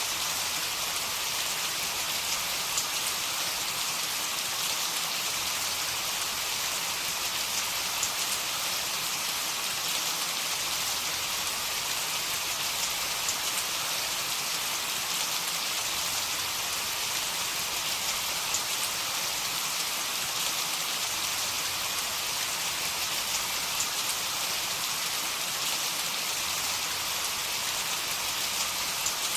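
Heavy rain falling steadily: a dense, even hiss of rain on surfaces with scattered individual drop ticks.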